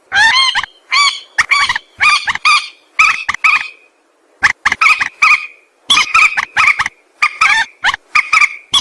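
Mandar sawah, a rail, calling: a rapid run of short, harsh, pitched notes repeated over and over, with a brief pause about four seconds in.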